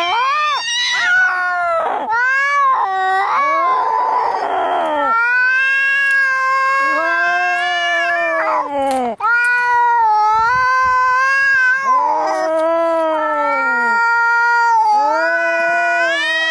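Angry cats yowling and caterwauling in a fight: long, drawn-out cries that waver up and down in pitch, with a rough, raspy stretch about four seconds in.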